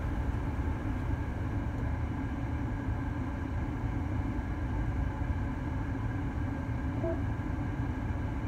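Car engine idling, a steady low rumble heard inside the cabin with the phone lying on the seat. A short faint beep sounds about seven seconds in.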